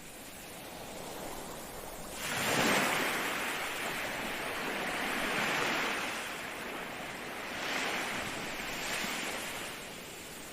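Ocean waves breaking and washing in: a wave crashes about two seconds in, the surf rushes on, and a smaller wave breaks about eight seconds in before the wash eases.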